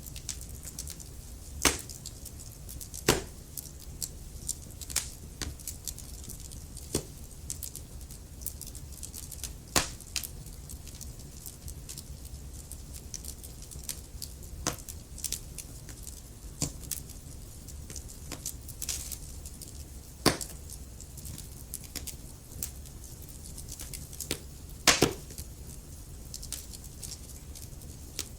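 Wood fire burning in a fireplace: logs crackling with irregular sharp pops, a few much louder than the rest, the loudest about 25 seconds in, over a steady low rumble.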